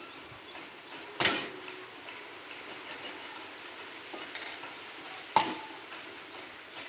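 Chicken frying in a pan with a steady sizzle, and a metal utensil clanking against the pan twice, about a second in and again about four seconds later, the second clank ringing briefly.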